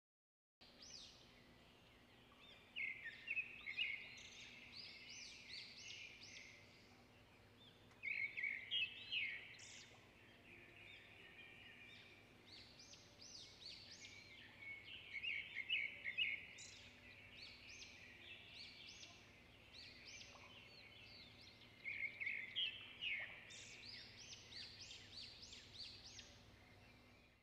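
Songbird singing: phrases of quick, bright chirps and trills a few seconds long, repeating about every six or seven seconds, over a faint steady low hum.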